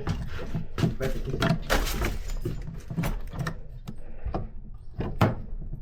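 A run of irregular clicks, knocks and rattles from objects being handled and tried out.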